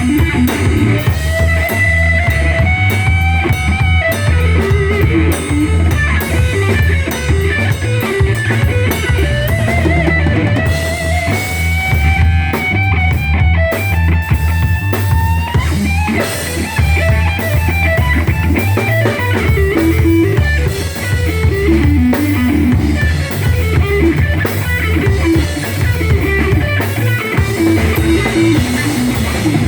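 Live rock band playing an instrumental passage: an electric guitar lead line with bent, sliding notes over a drum kit.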